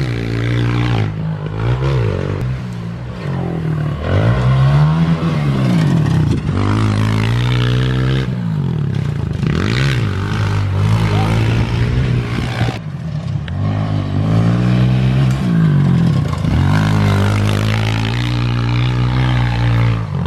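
Four-stroke pit bike engines on a dirt track, revving up and falling back again and again as the riders open and close the throttle through the corners and jumps, with a steady lower engine note underneath.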